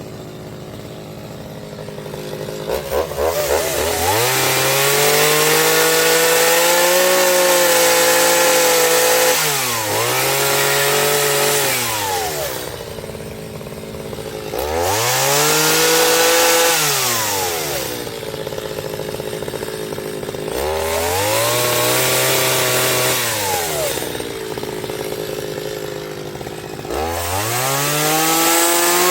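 Chainsaw idling, then revving up and holding high speed for a few seconds before dropping back to idle, about five times over.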